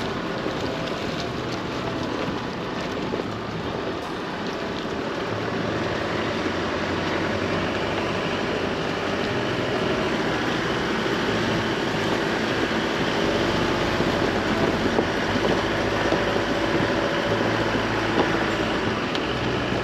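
Chevrolet Colorado ZR2 Bison pickup driving: steady engine hum mixed with tyre and wind noise, the low rumble growing a little louder about two-thirds of the way in.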